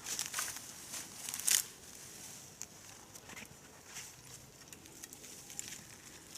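Irregular crunching and rustling of footsteps through dry fallen leaves, with the loudest crunches in the first second and a half.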